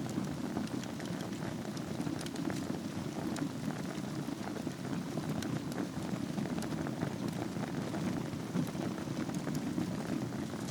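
Wood fire burning in a fireplace over a bed of embers: a steady low rush with many small, scattered crackles and pops.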